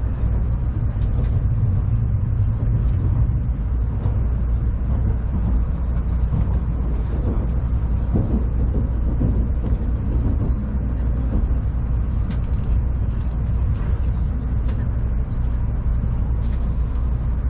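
Tokaido Shinkansen train running, heard inside the passenger car: a steady low rumble with faint scattered ticks and rattles.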